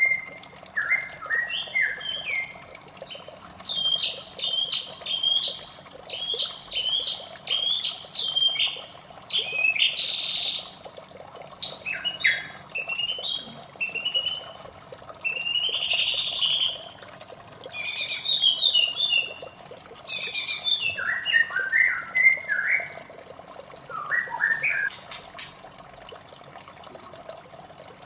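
White-rumped shama singing a long, varied run of short whistled and chattering phrases, over steady running water. The song stops for a few seconds near the end.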